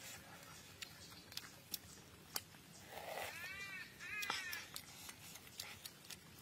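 Wet chewing and lip-smacking clicks of someone eating, with two short arching whines from an animal about three and four seconds in.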